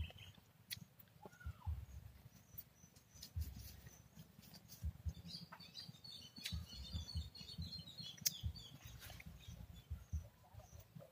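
Small birds calling: a short whistled note early on, then a run of quick, high twittering chirps in the middle. An uneven low rumble sits under them.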